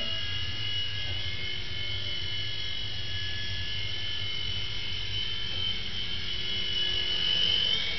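Small electric RC toy helicopter in flight: the motor and rotors give a steady high whine over a low buzz. Near the end the whine shifts in pitch and grows a little louder.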